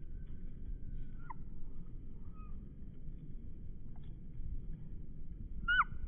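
Birds calling outdoors: a few short whistled notes that slide down in pitch, one about a second in and the loudest just before the end, over a steady low rumble.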